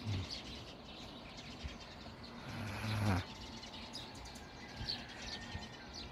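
Faint, scattered chirps of small birds over quiet outdoor ambience, with a short low voice-like hum near the middle.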